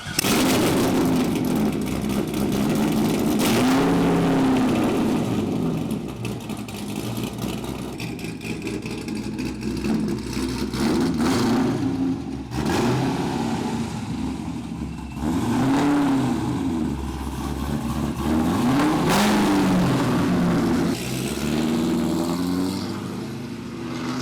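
Performance car engine revving, its pitch rising and falling several times, with the biggest rises about 4, 16 and 19 seconds in.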